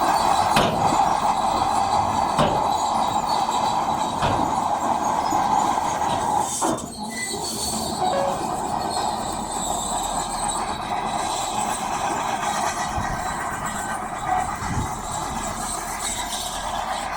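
Shantui DH17C2 crawler bulldozer's diesel engine running under load, with its steel tracks clanking and squealing steadily. A few clanks land about two seconds apart in the first few seconds.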